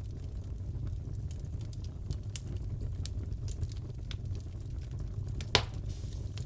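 Fireplace crackling: scattered small crackles over a low steady rumble, with one louder pop about five and a half seconds in.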